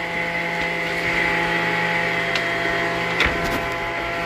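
Woodworking machine motor running at a steady speed with a constant hum, with a few sharp knocks, the loudest near the end.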